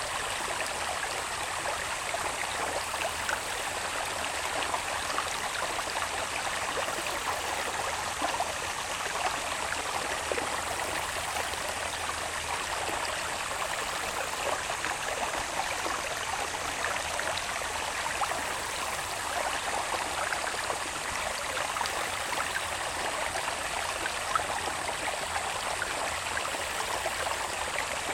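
Small irrigation channel of water running down from the hills, babbling steadily. A faint, thin high insect tone runs underneath.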